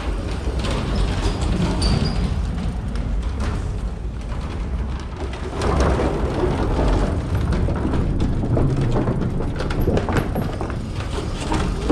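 Mountain bike being ridden over indoor trails: steady tyre and rolling noise with frequent knocks and rattles from the bike, louder from about six seconds in.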